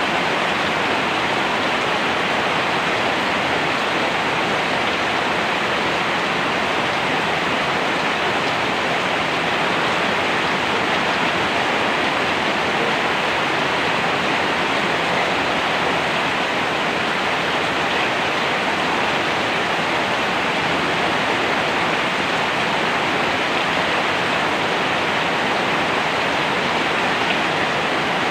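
Steady, heavy rainfall, a dense even hiss with no distinct drops or thunder.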